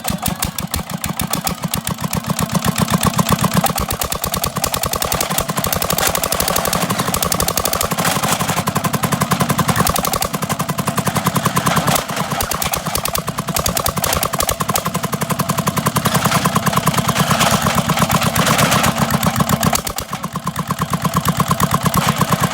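Diesel engine running with a rapid, even chugging beat of several exhaust thumps a second; its pace and loudness shift a few times.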